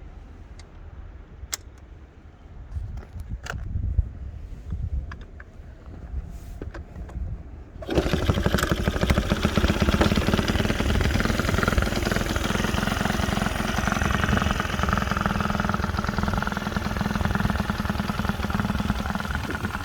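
A few faint clicks over a low rumble, then about eight seconds in the bored-up Honda Dax AB26's four-stroke single, with a Takegawa big carburettor and Takegawa street muffler, starts and settles into a steady, loud idle.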